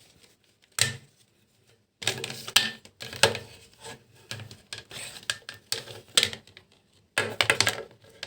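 A tumble dryer's plastic lint filter being taken out and handled: a sharp click about a second in, then irregular rubbing, scraping and small knocks of plastic, with a louder clatter near the end.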